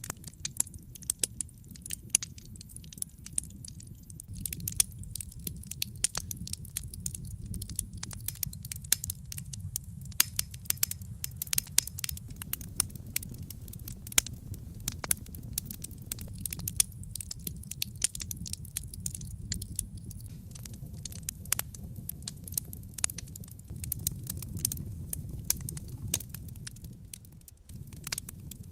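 Wood fire crackling in a fireplace: frequent sharp pops and snaps of varying loudness over a low, steady rumble of the flames, which dips briefly near the end.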